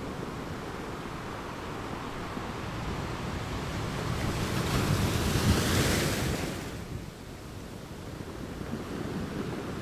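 Sea water sloshing and wind buffeting the microphone, with no engine tones. A louder rushing hiss of water swells up about four seconds in and dies away by about seven seconds.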